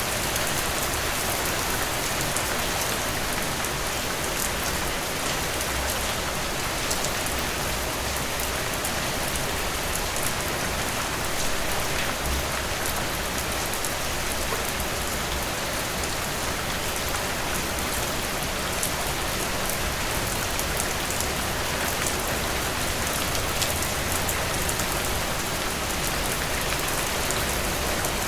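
Heavy rain pouring steadily, a dense even hiss with many fine drop patters.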